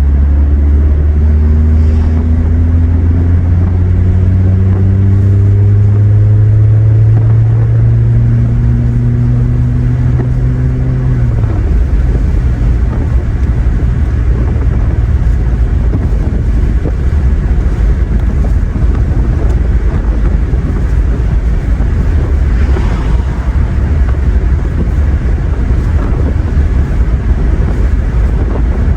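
2017 Honda Accord LX's 2.4-litre inline-four through a muffler-deleted exhaust, heard from inside the cabin while driving: a loud engine drone that rises slowly in pitch for about eleven seconds, then drops away into a steady low exhaust rumble and road noise.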